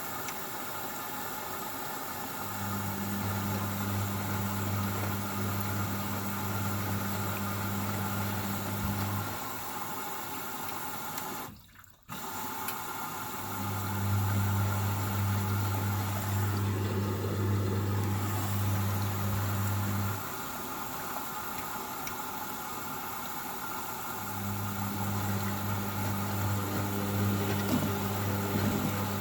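Hoover Baby washing machine in its first rinse: water running steadily in the machine, with a low electrical hum that switches on and off three times. The hum comes from its water valve or pump cycling. The sound drops out briefly just before halfway.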